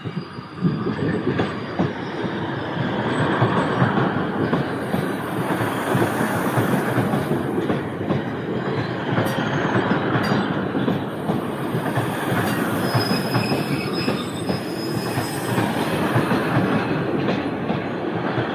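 Northern Class 150 Sprinter diesel multiple unit passing close by, its wheels running and clattering over the rails. A thin, high wheel squeal sounds for a couple of seconds about two-thirds of the way through.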